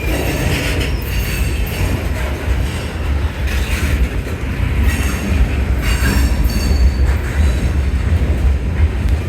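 Long freight train rolling past, its cars going by with a steady low rumble on the rails.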